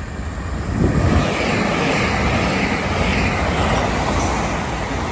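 Two coupled Class 375 Electrostar electric multiple units passing through the station without stopping: steady wheel and air noise that swells about a second in and holds.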